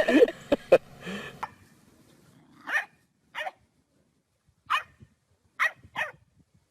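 A dog giving about five short, high yips or barks, spaced irregularly over a few seconds.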